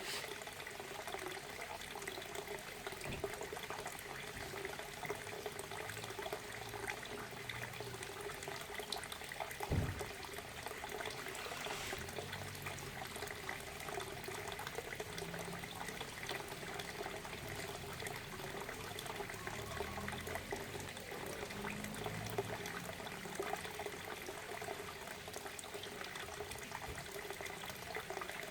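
Waterfall: water falling and splashing in a steady, unbroken rush, with a single low thump about ten seconds in.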